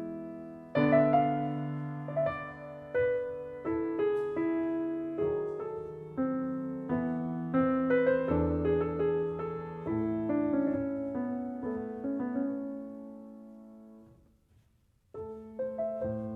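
Background piano music: single struck notes and chords ringing and dying away one after another. It fades out about fourteen seconds in and starts again a second later.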